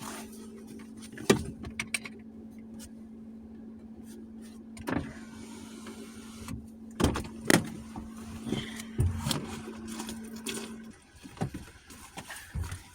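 Steady hum of a parked 2020 Jeep Gladiator idling, which stops near the end, with several sharp knocks and clicks as the passenger-side mirrors are worked on by hand.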